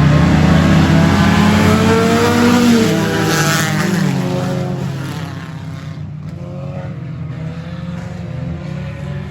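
Race car engines running past close by, several pitches gliding as the cars go by. After about five seconds the sound falls away to a quieter, steadier engine drone.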